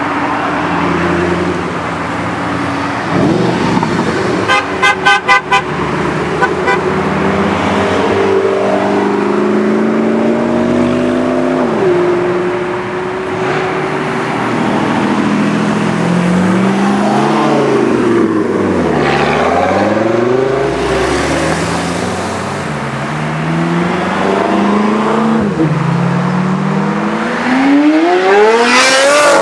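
Supercar engines revving and accelerating, their pitch climbing and dropping back at each gear change, with quick rev blips in the middle and a steep rising rev near the end. A car horn honks in several short toots about five seconds in.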